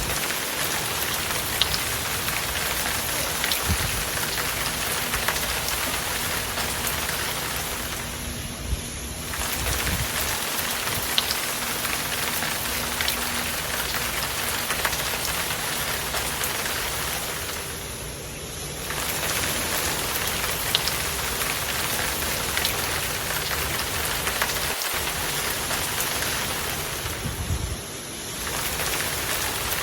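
Hard rain falling steadily, with scattered sharp ticks of drops striking a surface. The rush briefly dips about every nine to ten seconds.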